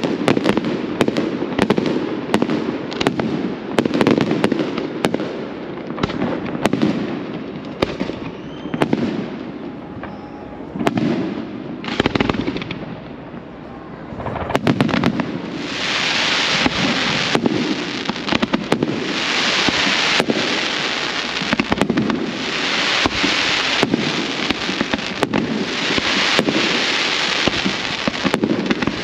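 Fireworks display: a rapid, irregular string of loud bangs from bursting shells, easing briefly in the middle, then joined by a dense crackling hiss for the second half.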